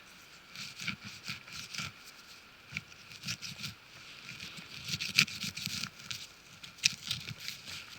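Irregular crunches and scrapes of wet earth and leaves being worked, coming in clusters of sharp clicks with soft low thumps.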